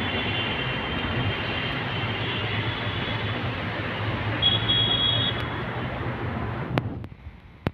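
Steady, loud mechanical noise with a low hum and a faint high whine, like a running machine or passing traffic; it fades out about seven seconds in, with a click or two near the end.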